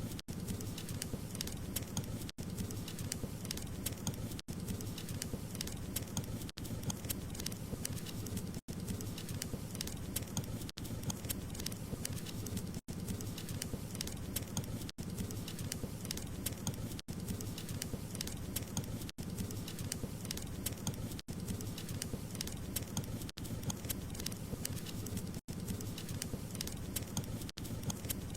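Wood fire crackling, many sharp clicks over a steady low rumble of burning, broken by a very brief drop-out about every two seconds.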